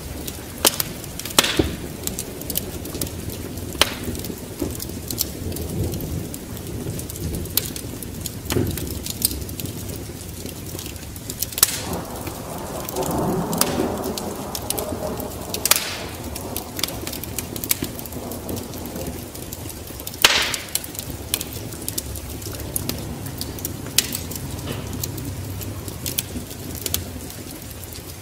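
Wood fire crackling, with sharp irregular pops, over steady rain; a low rumble of thunder swells up about twelve seconds in and fades.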